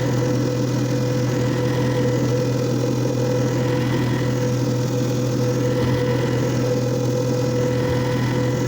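JFJ Easy Pro disc repair machine running with a steady motor hum.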